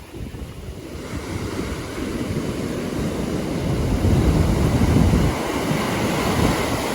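Caspian Sea waves washing onto the shore, building from quiet to loudest about four to five seconds in, with wind buffeting the microphone.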